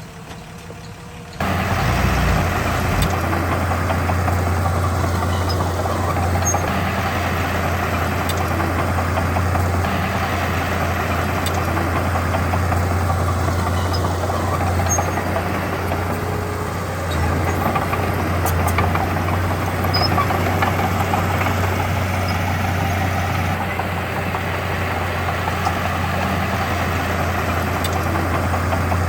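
Heavy diesel engine of earthmoving machinery running steadily with a deep low hum, cutting in abruptly about a second and a half in.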